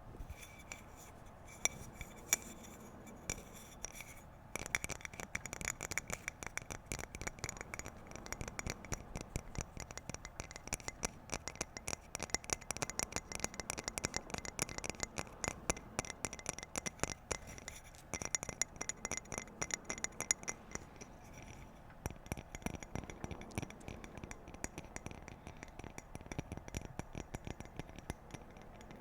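Fingers tapping on a hard object that rings faintly. The taps are scattered at first, turn rapid and continuous about four seconds in, and ease back to scattered taps after about twenty seconds.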